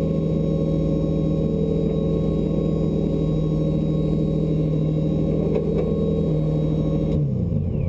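Drift car's engine idling steadily, heard from inside the cabin, then switched off about seven seconds in, its pitch sliding down as it winds to a stop.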